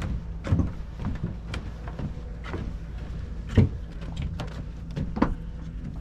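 Irregular thuds and knocks of footsteps on a dock, about one a second, over a steady low hum.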